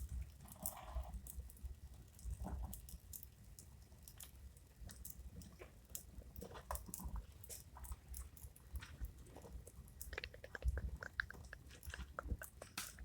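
Wood fire crackling, with irregular pops and snaps of burning logs. Near the end comes a quick run of short, high squeaks.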